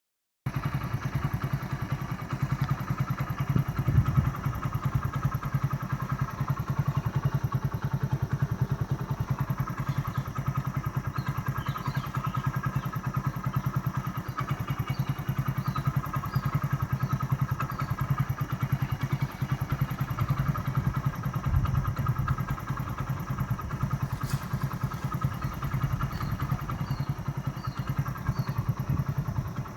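Small engine running steadily with a rapid, even pulse, with a thump about four seconds in and two short runs of faint high chirps.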